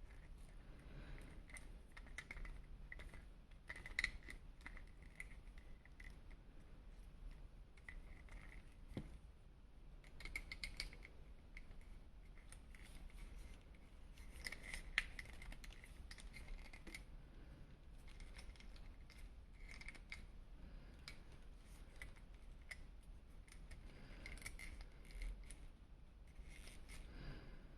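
Faint clicking and rustling of plastic being handled, with a couple of sharper clicks about four seconds in and again around fifteen seconds.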